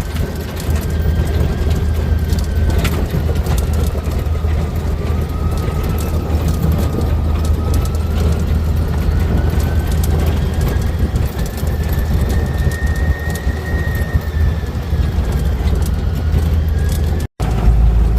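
Steady low rumble of a moving vehicle heard from inside, with a faint thin whine that slowly drifts up and down in pitch.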